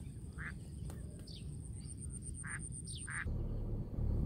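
Short bird calls, about five brief notes spread over three seconds, over a steady low rumble; a little over three seconds in the calls stop and the background turns abruptly to a louder low rumble.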